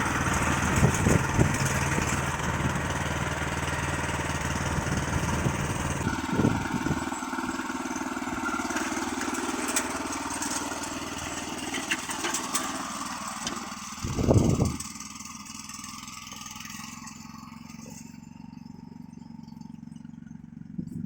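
A motor vehicle's engine running, louder in the first few seconds and then quieter. There is a short loud rumble about 14 seconds in, after which only a low steady hum remains.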